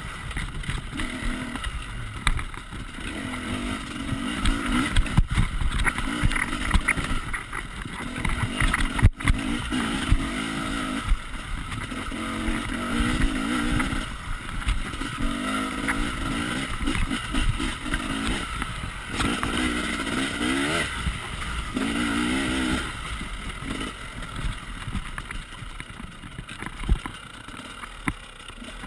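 Husaberg enduro motorcycle engine being ridden, revving up and dropping back again and again as the throttle is worked. Two sharp knocks come about five and nine seconds in.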